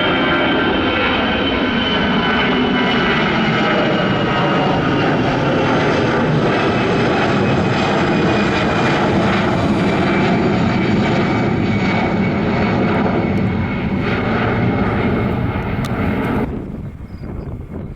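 Jet airliner passing close by: loud engine noise with high whining tones that slowly fall in pitch. It cuts off suddenly near the end, leaving faint wind.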